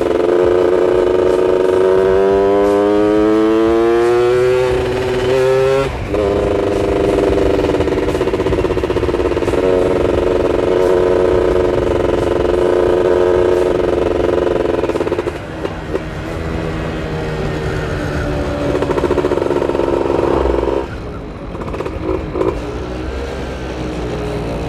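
Yamaha F1ZR's two-stroke single-cylinder engine under way: it revs up with a rising pitch, breaks off about six seconds in as it changes gear, holds a steady pitch, then eases off about fifteen seconds in and slows, backing off further near the end. The rider feels the carburettor setting is still running slightly rich.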